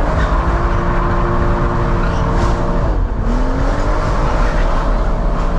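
Car engine under hard acceleration, its note held high, then dropping sharply at an upshift about three seconds in and climbing again in the next gear.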